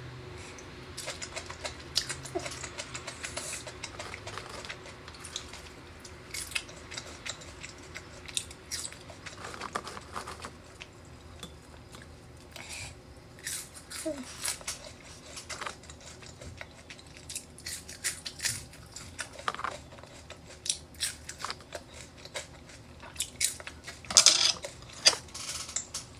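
Close-up mukbang eating sounds: chewing and biting on okra and other food, with wet mouth clicks and smacks scattered throughout and a louder burst of clicks about two seconds before the end.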